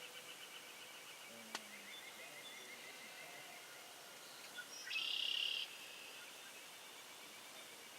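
Faint outdoor birdsong: a rapid, steady, high trill throughout, a single sharp click about one and a half seconds in, and a short, louder, buzzy high call about five seconds in.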